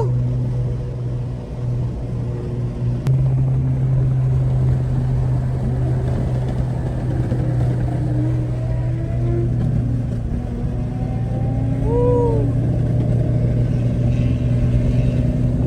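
Nissan Z's VQ V6 engine and exhaust droning steadily at an even cruising pitch, really loud.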